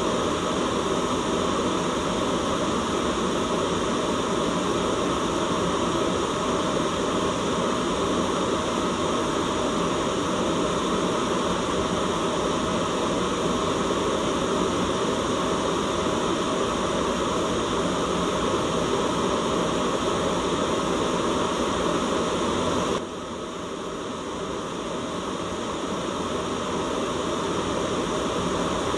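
Steady white noise: an even, full-range hiss. About three-quarters of the way through it suddenly drops a little in level, then slowly swells back up.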